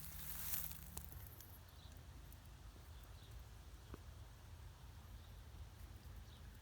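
Leafy branches rustling and crackling for about a second, then faint outdoor quiet with a few soft ticks.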